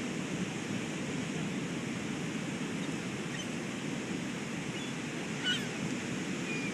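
Ocean surf washing steadily on the beach, with a light wind, and one short sharp sound about five and a half seconds in.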